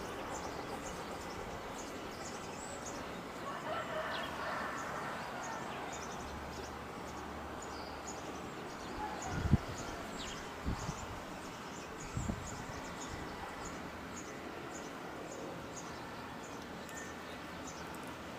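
Outdoor ambience with a bird chirping over and over, short high chirps about two a second, over a steady background hiss. Three short low thumps come near the middle, the first the loudest.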